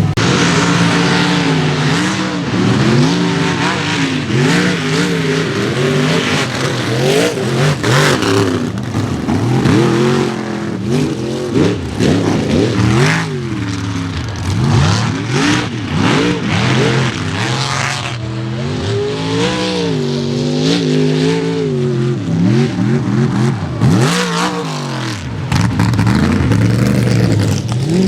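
Mega mud truck engine revving hard under racing load, its pitch climbing and falling again and again as the throttle is worked, with a brief drop in the low end near the end.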